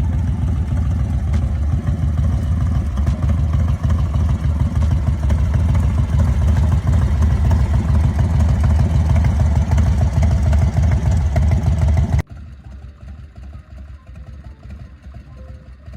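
Large V-twin engine of an American IronHorse Legend chopper (111 cubic-inch S&S-type) running with a loud, dense low rumble. About twelve seconds in it cuts suddenly to a much quieter, steadier engine sound.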